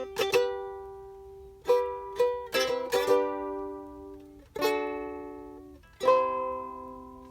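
A strummed acoustic string instrument plays the closing chords of a song alone, without voice. Chords are struck a handful of times, some in quick clusters about two and three seconds in. A final chord about six seconds in rings out and fades away.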